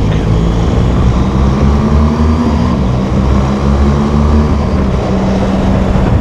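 BMW R1200GS boxer-twin engine running at a steady cruise on the road, over wind noise.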